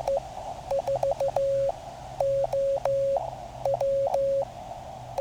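Morse code (CW) tone from a QCX Mini QRP transceiver, a single steady note keyed on and off in dots and dashes over the receiver's band hiss.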